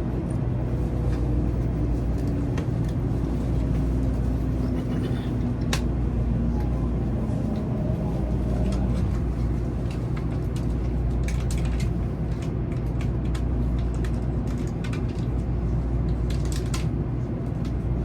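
Steady low rumble of a Sanyo Shinkansen Sakura train running at speed, heard from inside the passenger cabin. A faint hum slowly falls in pitch in the first half, and a few light clicks and ticks come through.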